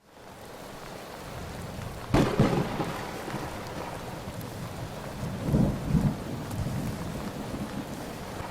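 Steady rain with thunder, fading in at the start: a sharp thunderclap about two seconds in and a lower rumble of thunder a little past the middle.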